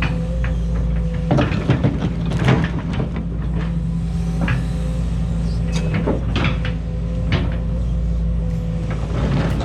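Case 210 excavator's diesel engine running steadily, with irregular clunks, knocks and scrapes over it.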